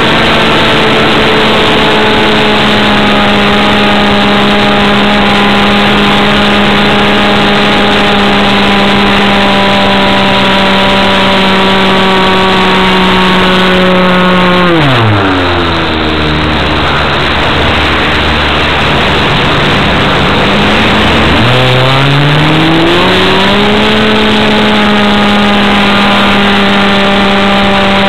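Two-stroke model airplane engine on a Sport Air 40 RC plane running at high throttle; about halfway through it is throttled back, its pitch dropping sharply to a low idle for several seconds, then it is opened up again and climbs back to full speed.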